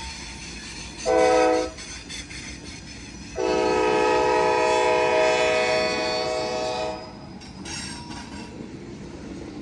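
Diesel locomotive's multi-chime air horn sounds a short blast about a second in, then a long blast of about three and a half seconds, the closing short-and-long of a grade-crossing signal. Underneath is the steady rumble of the train rolling past.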